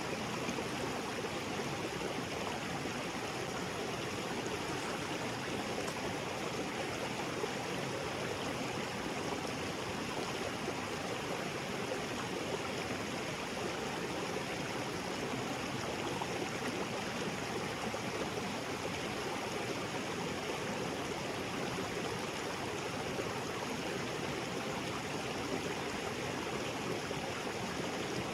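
Small waterfall pouring into a rocky creek, a steady even rush of water with no change.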